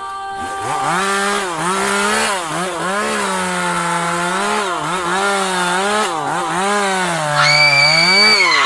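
Chainsaw engine revving up and down over and over, its pitch swinging every second or so. Near the end a high, steady tone joins it briefly.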